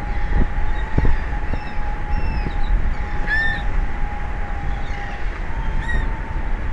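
Wind rumbling and buffeting the microphone, with a steady high-pitched hum and scattered short chirping calls, one louder call about halfway through.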